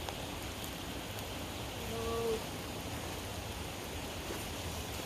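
Steady outdoor rushing noise, with one short pitched call about two seconds in.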